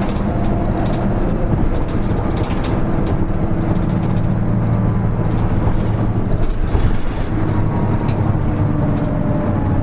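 Cabin sound of a Hino KL-HR1JNEE (Rainbow HR) city bus under way: steady diesel engine drone with clicks and rattles from the interior. The engine note dips briefly about six and a half seconds in, then picks up again.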